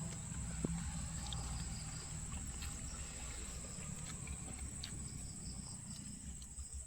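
Insects, likely crickets, trilling steadily in a high thin tone over a low background rumble, with a few faint clicks.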